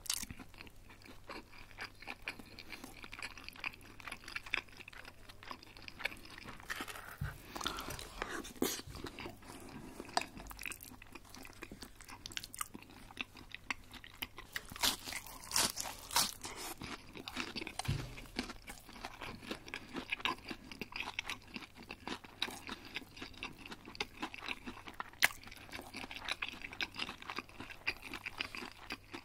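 Close-miked chewing with a steady run of small crisp crunches and a few louder bites, typical of eating crispy breaded chicken schnitzel.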